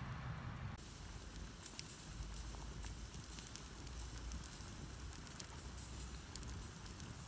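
Wood campfire crackling, with scattered sharp pops over a low, steady background noise.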